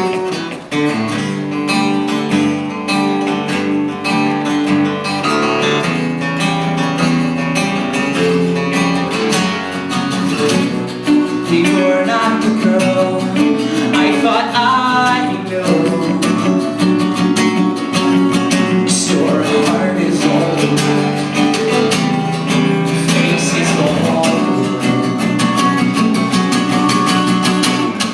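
A band playing an instrumental passage, led by strummed acoustic guitar over sustained accompanying notes, with a sliding lead line about halfway through.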